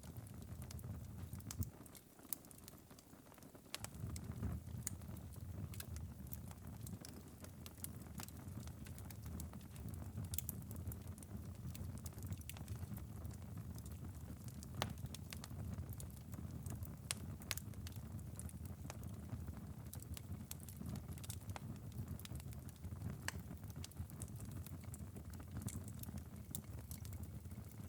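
Wood fire in a fireplace burned down to a glowing ember bed, crackling with scattered sharp ticks and pops over a steady low rumble.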